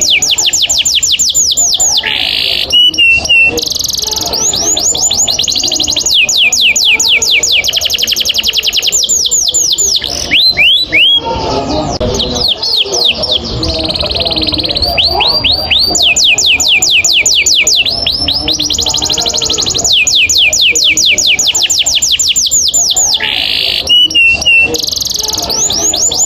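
Domestic canary singing long rolls: fast runs of repeated down-sweeping notes, phrase after phrase, broken by short pauses and a few held or rising notes.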